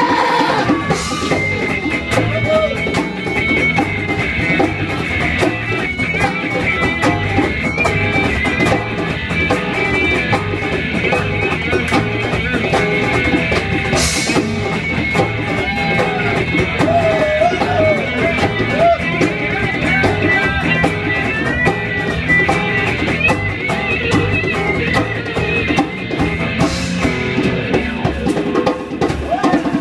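Live rock band playing an instrumental break: electric guitar carrying a wavering melodic line over drums and bass, with no vocals.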